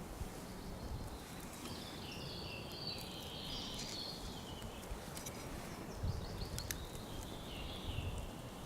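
A small songbird singing: a twittering phrase for a couple of seconds, then a shorter one near the end. A few soft low thumps come about six seconds in.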